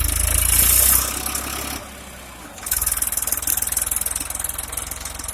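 Tractor diesel engine running with a steady pulsing beat, straining in heavy sand; it drops away for about a second in the middle, then comes back.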